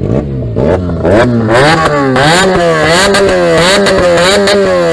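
Benelli TNT300 parallel-twin engine with a loud aftermarket exhaust, revved in quick repeated throttle blips, its pitch climbing and falling several times with sharp pops, then dropping away toward idle near the end.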